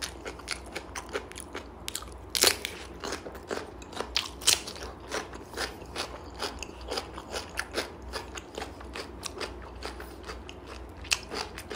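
Close-up biting and chewing of raw cucumber: a loud crunch about two and a half seconds in, then a steady run of crisp crunching chews.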